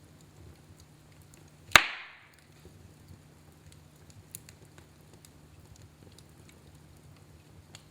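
Wood fire in a fireplace burning with faint, scattered crackles, and one loud, sharp pop from the burning wood a little under two seconds in that dies away quickly.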